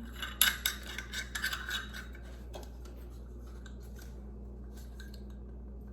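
Small metal parts of a ceiling light fixture clinking and scraping as the threaded coupling is screwed on by hand. The handling sounds are busiest in the first two seconds, with a few faint ones later over a low steady hum.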